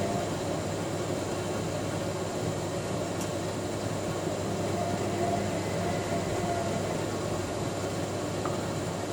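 AEG 7000 Series front-loading washing machine running in the main wash of its Cottons 60 cycle: a steady mechanical hum with a low tone that comes and goes.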